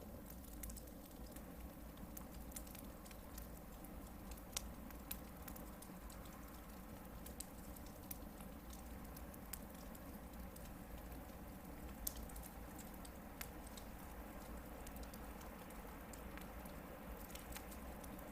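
Hardwood firewood burning in a campfire: a soft steady hiss with scattered crackles and pops, a few sharper pops standing out.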